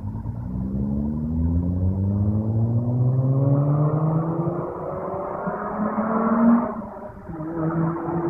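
Mazda RX-8's two-rotor rotary engine breathing through an Agency Power dual racing muffler, pulling hard with its pitch rising steadily for about six and a half seconds. It falls away sharply, then starts climbing again.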